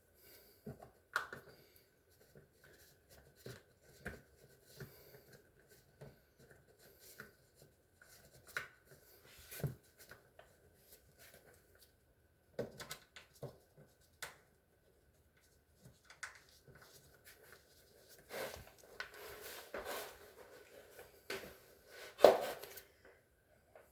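Scattered taps, clicks and knocks of hands handling refrigerator parts, with a faint steady high tone underneath; the handling gets busier in the last few seconds and ends in one sharper knock.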